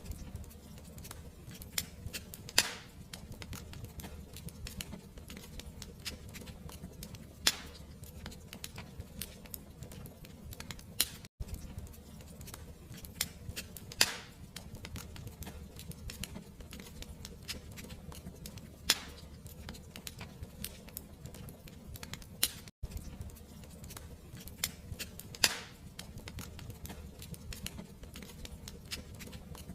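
Fireplace fire crackling, with a dense run of small clicks over a low steady rumble and a sharper pop every few seconds. It cuts out for an instant twice.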